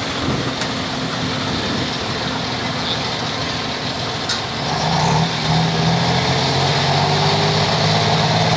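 Diesel engine of a super stock pulling tractor running hard. About halfway through it gets louder and settles into a steady, slightly rising note.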